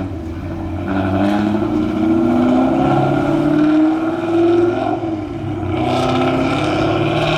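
Car engine accelerating hard, its note climbing steadily for a few seconds, dropping about five seconds in, then climbing again.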